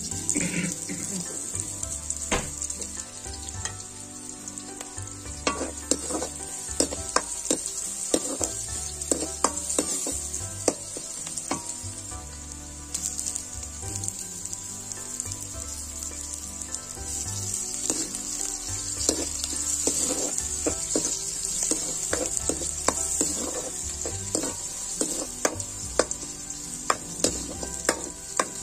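Sliced onions sizzling steadily in hot oil in a blackened wok, with frequent sharp ticks and taps scattered throughout.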